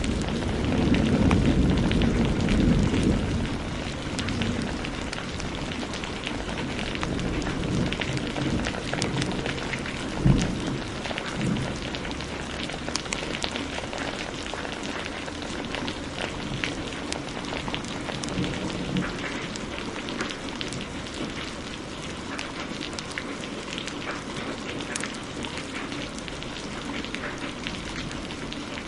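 Steady heavy rain with a low thunder rumble that fades over the first few seconds, and the scattered pops and crackles of a wood fire throughout; a single sharp crack comes about ten seconds in.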